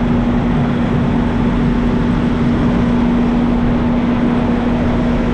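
Semi truck's diesel engine idling close by: a loud, steady drone with a constant low hum.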